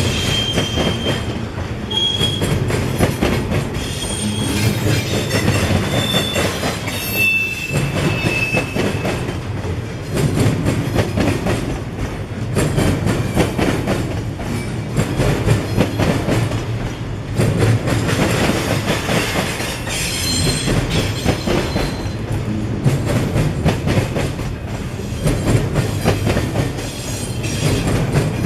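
Freight train rolling past, its wheels clicking and clattering steadily. A few brief, high-pitched wheel squeals ring out, mostly in the first third and again about two-thirds of the way in.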